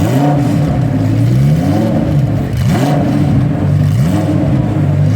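A performance car's engine accelerating hard through the gears, its pitch climbing and dropping back with each shift, several times over.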